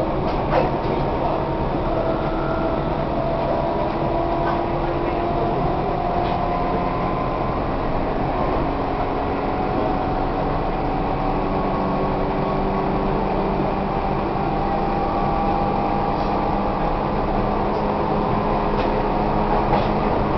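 Tobu 1800 series electric train running, heard inside a passenger car: a steady rumble of wheels on rail with a motor and gear whine that drifts slowly in pitch, and a few faint clicks.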